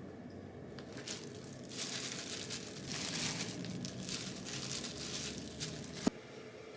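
Rustling and crinkling of something being handled, in irregular bursts, ending with one sharp click.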